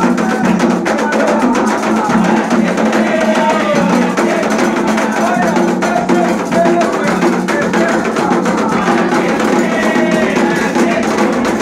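Candomblé atabaque hand drums playing a steady, fast ritual rhythm, with voices singing over the drumming.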